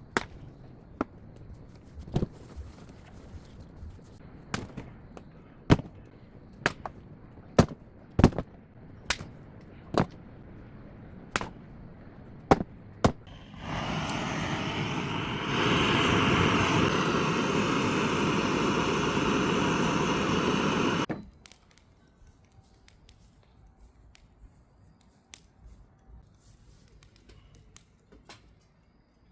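A series of about fifteen sharp blows on wood at uneven intervals. They are followed by a loud, steady machine-like noise lasting about seven seconds, which then cuts off suddenly.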